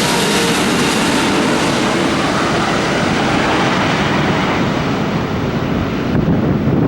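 Jet engine roar from the GE90-115B engines of a landing Boeing 777-300ER, steady and loud. Its higher hiss fades out over the last few seconds, as the aircraft moves away.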